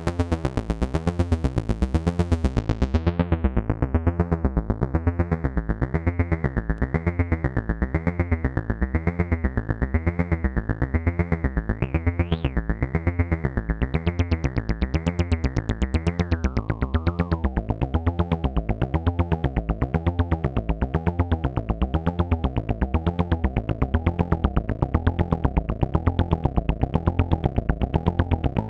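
AnalogFX SER-2020 analog synthesizer playing a fast, repeating low pulsing note while its filter is tweaked. The bright tone closes down about two to four seconds in, then wobbles in brightness about once a second, and turns duller again a little past halfway.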